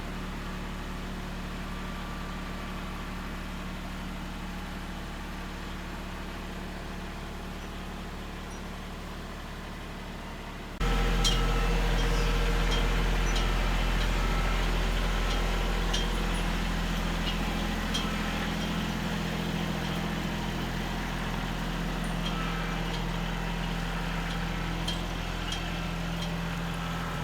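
Farm tractor engine running steadily. About eleven seconds in it becomes suddenly louder and closer, with scattered sharp clicks over the engine sound.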